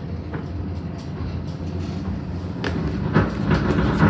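Lookout Mountain Incline Railway car climbing the track, heard from aboard: a steady rumble of wheels on the rails with scattered clacks. It grows louder about two and a half seconds in, with a few sharper knocks.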